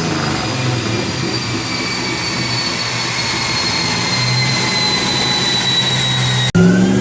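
Turbocharged 5.2 V8 Dodge Dakota on a chassis dyno, coasting down after a pull, with a high whine slowly falling in pitch over the low engine sound. Near the end it cuts off abruptly and the engine is heard pulling again, its pitch rising.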